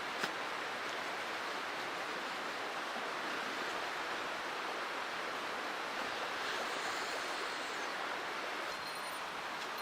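Mountain stream water rushing over rocks in a steady, even wash. There is a single sharp click just after the start, and a faint high metallic ringing begins about a second before the end.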